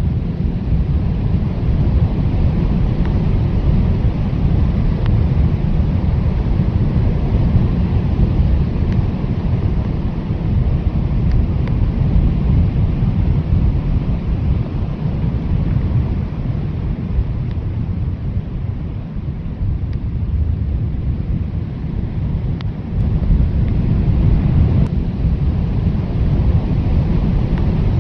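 Blizzard wind blowing hard, a steady deep rushing rumble that eases slightly about two-thirds of the way through, then builds again.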